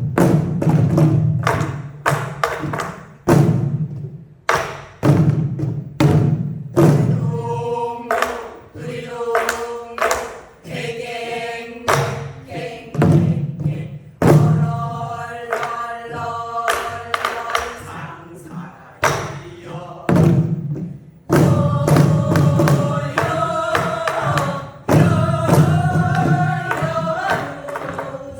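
Korean buk barrel drums beaten in a steady rhythm while a group of singers sings a folk song to them (buk byeongchang, drumming and singing at once). The drum strikes carry alone at first; the voices come in about eight seconds in and grow fuller near the end.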